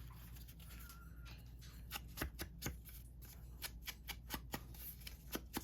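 Paper ephemera pieces such as cut tags and cards being handled and shuffled, giving a run of light, irregular clicks and flicks that begins about two seconds in.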